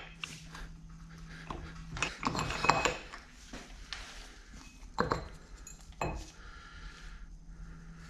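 Steel tools clinking and knocking against metal parts of a Bridgeport mill head while the rear timing belt pulley is worked loose. There is a busy run of clanks about two to three seconds in and two single sharp knocks later.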